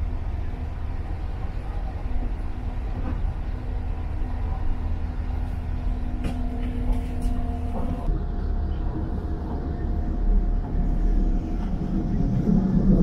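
Inside a moving DB S-Bahn electric train carriage running at speed: a steady low rumble, with faint steady hum tones that change about eight seconds in.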